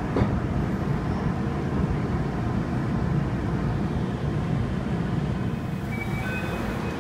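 Keihan electric train running along the rails, heard from inside the car: a steady low rumble of wheels and running gear as it moves alongside a station platform, with a few faint high thin tones near the end.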